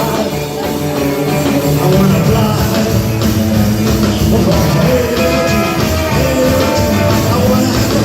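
Rockabilly band playing a rock and roll song.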